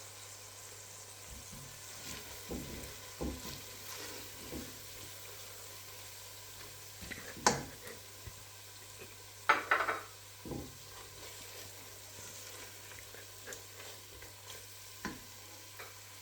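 Softened onions and freshly added curry powder frying in a pan with a low, steady sizzle, while a utensil stirs them, scraping and knocking against the pan. The loudest knocks come about halfway through.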